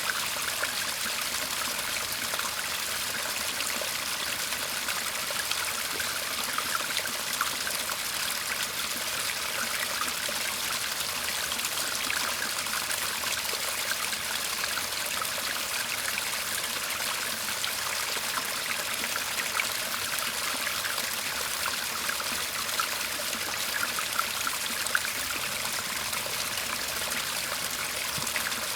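Shallow garden stream trickling and babbling steadily, with small splashes scattered through the flow.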